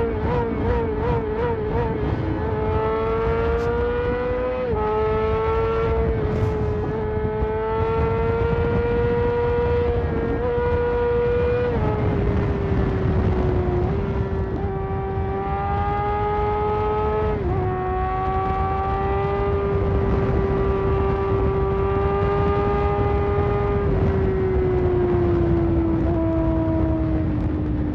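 Sport motorcycle engine running at steady cruising revs under wind and road noise. Its pitch wavers quickly for the first two seconds, steps up and down a few times, then sinks slowly near the end as the bike eases off.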